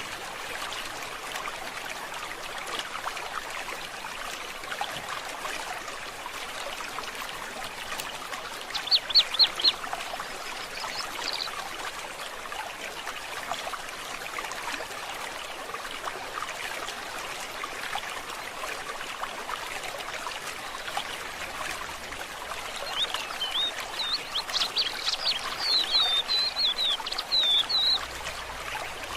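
A forest stream trickling steadily, with a bird giving a quick run of about five high notes about nine seconds in and a longer, louder twittering song over the last several seconds.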